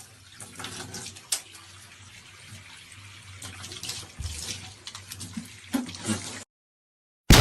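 Running water with a few sharp clicks over it, cutting off abruptly near the end.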